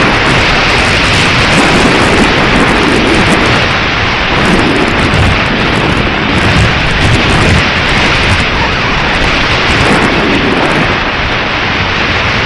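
Strong wind buffeting the microphone: a loud, steady rushing roar with gusty surges in the low end.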